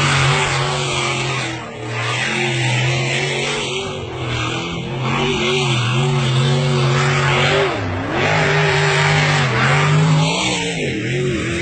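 Racing car engine running hard, its revs dropping and climbing again several times as it goes through the gears.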